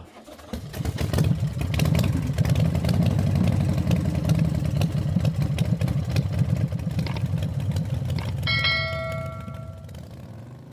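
2018 Chevy Silverado's 4.3 V6 engine cranking on the starter for about nine seconds without catching, then stopping; a short chime rings near the end. It cranks but won't start because the fuel pump gets no power, which the mechanic traces to a burnt socket at the fuel pump control module.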